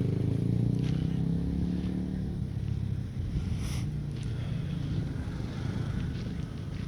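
A motor vehicle engine running, loudest for the first couple of seconds and then fading to a lower drone. A brief hiss comes about halfway through.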